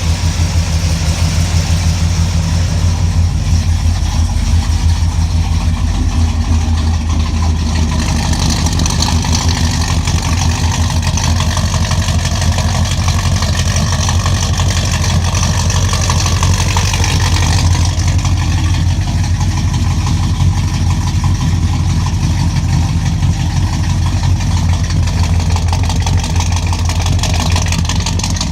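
Car engine idling steadily on the first startup after a 700R4 four-speed automatic transmission was installed, with a deep, even exhaust drone.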